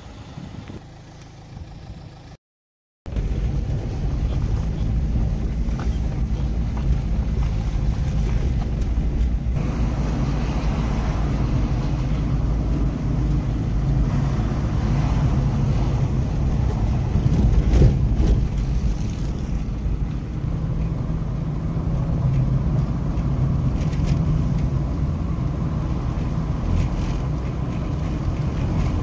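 A vehicle running steadily, with a low rumble and wind noise. It starts abruptly about three seconds in, after a brief dropout to silence.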